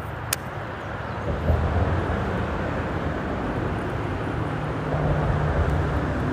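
Freeway traffic on the bridge overhead: a steady rumble of passing vehicles that swells about a second and a half in and again near the end, with a brief sharp click just after the start.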